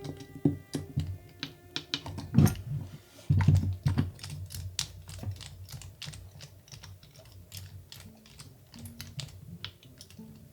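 Irregular light clicks and taps of small hard kit parts being handled and fitted together, with a few heavier knocks in the first half. Soft background music plays faintly underneath.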